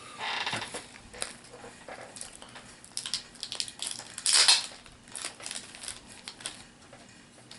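Plastic packaging crinkling and small hard plastic pieces clicking and clattering as a collectible miniature is unwrapped and handled, with a louder crinkle about four and a half seconds in.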